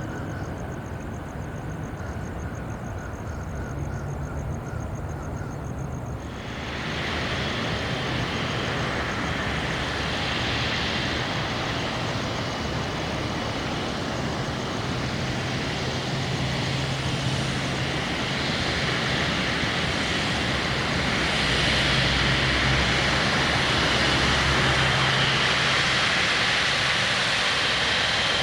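Jet airliner engines. About a quarter of the way in, the sound abruptly becomes much fuller, then grows steadily louder as the aircraft comes closer.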